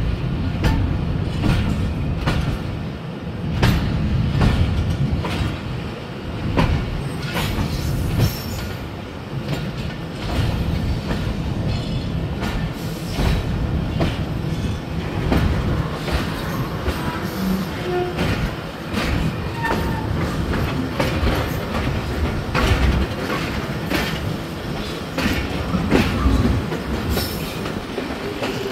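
Passenger train coaches running as the train pulls out of the station: a constant rumble with irregular clattering knocks of the wheels over rail joints and points, heard from aboard through an open window or door.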